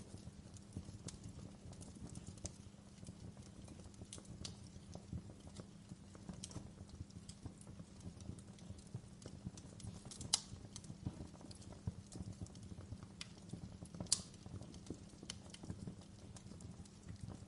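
Wood fire crackling in a fireplace: irregular sharp crackles and pops over a low steady rumble, with two louder pops past the middle.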